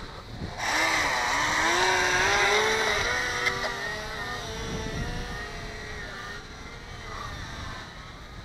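Hobbyzone Delta Ray RC delta-wing plane's electric motor and propeller whining, starting abruptly about half a second in, its pitch wavering up and down as it flies, then fading toward the end. Wind noise on the microphone underneath.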